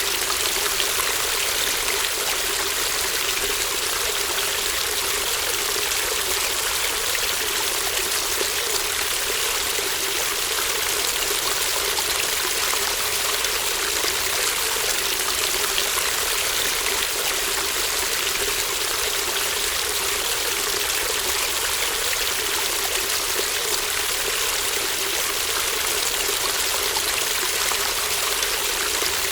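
A shallow brook babbling steadily, its water running and trickling without a break.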